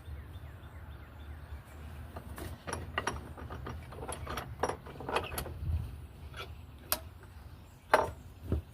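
Irregular knocks and clatters of wooden pieces and hand tools being handled, set down and fitted, with the loudest knock near the end.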